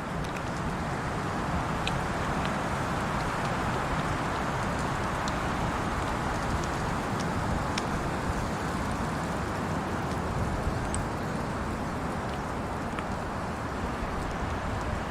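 Strong wind blowing steadily through winter woods: an even rush with a low rumble and a few faint ticks.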